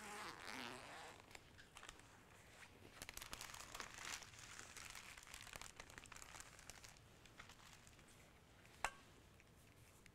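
Faint crinkling and rustling handling noise with scattered small ticks, busiest in the first half, and one sharp click about nine seconds in.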